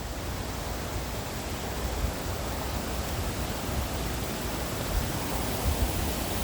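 Steady rush of water from a small waterfall, an even hiss without breaks.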